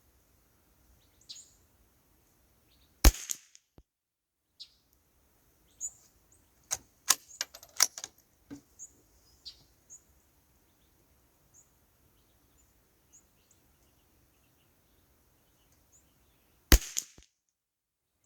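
Two sharp .22 rimfire rifle shots, about three seconds in and again near the end. Between them comes a quick run of smaller sharp clicks and clacks about seven to eight seconds in, over faint birdsong.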